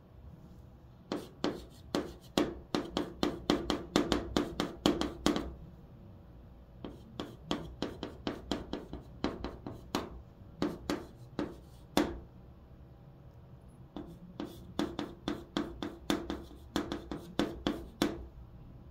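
Chalk writing Chinese characters on a blackboard: quick runs of sharp taps and short scratches as each stroke is drawn. There are three runs with brief pauses between them.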